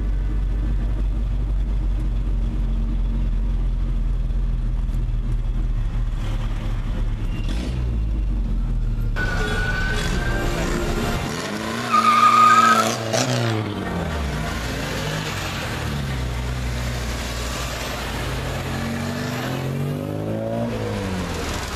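Classic Mini four-cylinder A-series engines. First, a steady engine drone heard from inside a moving Mini. Then Minis drive past one after another, their engine notes rising and falling, with a brief loud high-pitched tone about halfway through.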